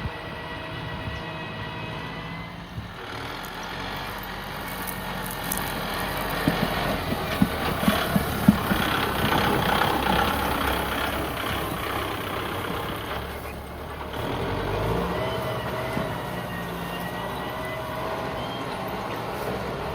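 Kubota tractor's diesel engine running, with a few sharp knocks about seven to eight seconds in.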